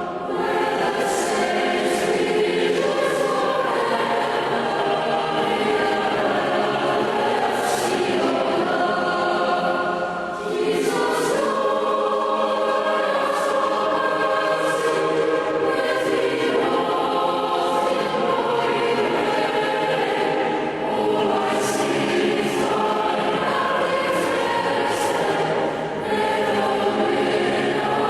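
A choir singing a hymn in sustained phrases, with short dips between phrases.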